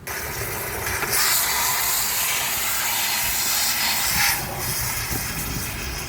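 Water from a hose spraying into and rinsing out a 1973 Honda CL350's steel gas tank, flushing out CLR residue and rust. It is a steady hiss that starts suddenly, grows louder about a second in, and eases a little after four seconds.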